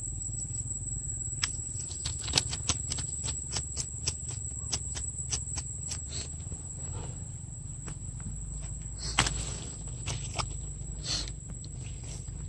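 A steady high-pitched insect drone over a low outdoor rumble, with many scattered clicks and rustles; a louder rustle comes about nine seconds in.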